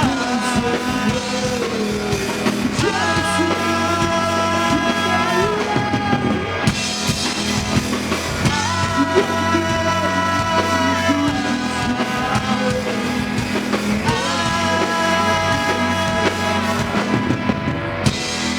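Live rock band playing: a drum kit keeps time under long held chords that change every two or three seconds.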